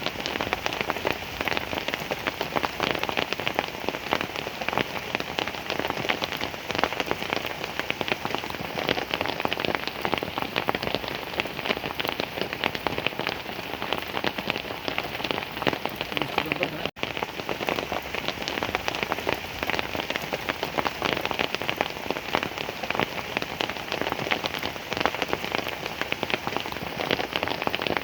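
Heavy rain falling steadily, a dense spatter of countless drop impacts, with one momentary dropout a little past the middle.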